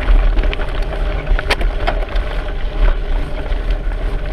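Wind buffeting the microphone on a moving bicycle, a steady low rumble, with small rattles and ticks and one sharp click about a second and a half in.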